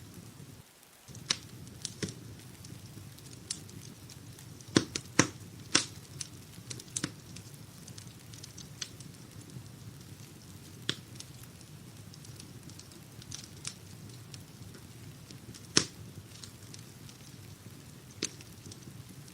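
Wood fire in a fireplace crackling: irregular sharp snaps and pops over a steady low rumble, with a loud cluster of pops about five seconds in and another strong pop near sixteen seconds. The low rumble drops out briefly just under a second in.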